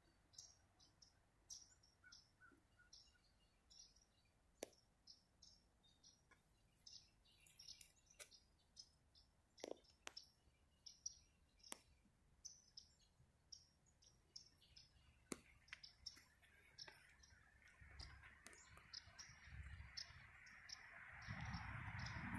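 Faint, repeated high chirps of small birds over near silence, with a few sharp clicks. In the last few seconds a rushing noise with a low rumble rises.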